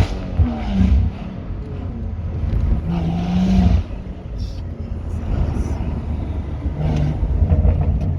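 BMW M140i's turbocharged B58 straight-six with a Quicksilver exhaust, heard from inside the car: a climbing rev ends at the start in a gear change, the engine pulls again and holds until about four seconds in, then the throttle lifts and the exhaust burbles and pops a few times.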